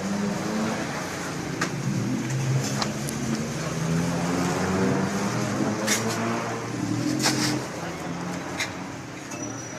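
A motor vehicle's engine running close by, its pitch shifting up and down, with a few sharp clicks and clinks.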